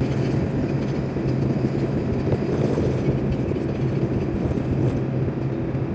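Excavator's diesel engine running steadily, a constant low rumbling hum.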